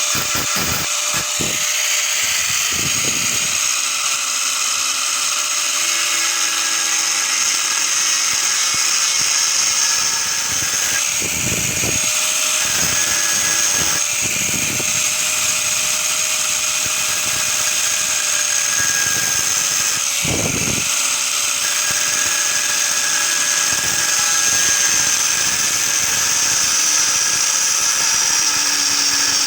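Electric power tool running steadily with a high whine, and a few dull knocks about a third and two thirds of the way through.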